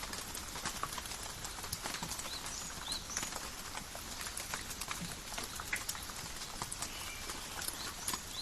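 Steady rain in a forest, with many irregular drops pattering and dripping. A few short high chirps come through now and then.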